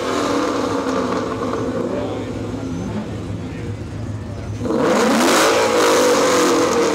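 Ford Mustang 5.0 V8 rumbling as it rolls away at low speed, then revved hard about five seconds in, the pitch rising and the sound getting louder.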